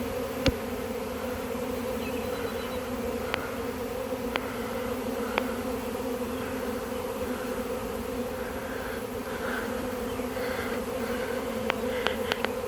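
A large honey bee swarm in flight, a dense, steady buzzing drone of thousands of bees still airborne and not yet clustered around the queen. A few brief sharp clicks sound over it.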